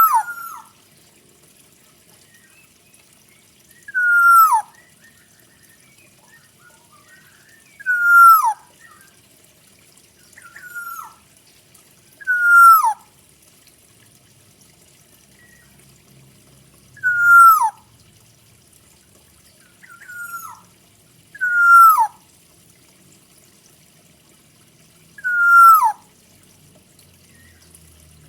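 Kepodang hutan (forest oriole) calling: a loud whistled note sliding down in pitch, repeated about every four seconds, with a fainter high twitter at each call.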